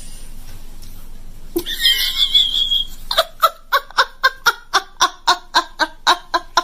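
A short high-pitched squeal, then a long run of rhythmic laughter, about four 'ha's a second.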